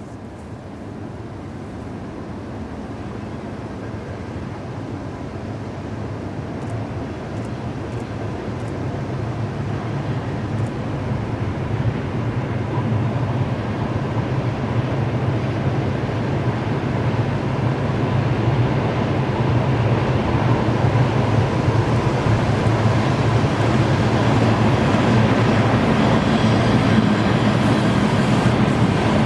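2ES6 'Sinara' electric locomotive hauling a freight train, approaching with a steady rumble that grows louder throughout.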